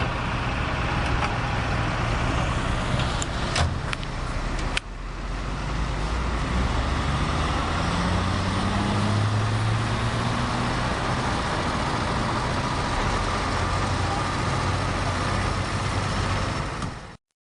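Heavy diesel semi-truck engines running as a tractor-trailer hauls an oversize load slowly past, the engine note rising for a few seconds about halfway through. A few sharp clicks sound early on.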